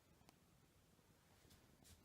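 Near silence: room tone, with a few faint soft ticks.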